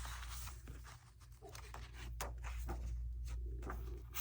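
Quiet handling of paper and cardstock: a few soft rustles and light taps, over a steady low hum.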